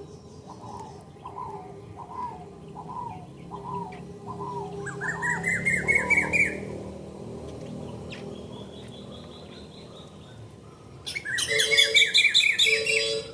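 Bird calls: a series of short repeated notes about twice a second, then a loud fast trill of rising notes, and a second loud fast trill near the end.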